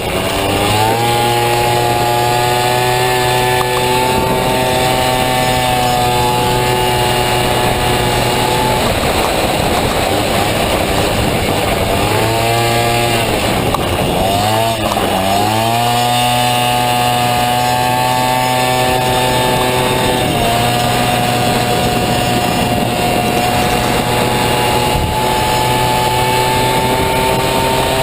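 Honda Dio two-stroke scooter engine in a Honda Motocompo, run hard: the pitch climbs and holds high, falls away about a third of the way in as the throttle closes, then swings up twice in quick succession and holds high again to the end.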